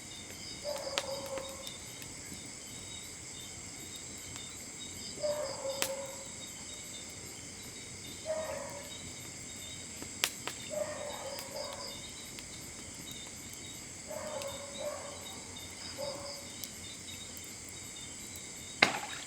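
Steady chorus of crickets and other night insects, shrilling without a break. Short lower-pitched calls recur every few seconds, and a few sharp clicks sound, the loudest near the end.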